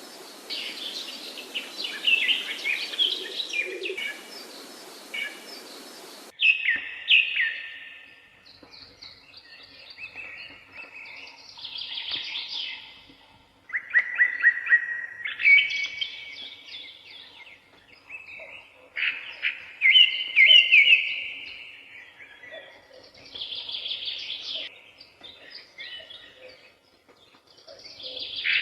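Several songbirds singing in short, repeated phrases of quick notes and trills. For about the first six seconds a steady hiss runs under the song, then stops abruptly.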